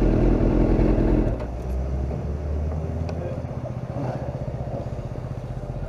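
Motorcycle engine running at idle with an even low pulse. A heavier vehicle rumble drops away about a second and a half in.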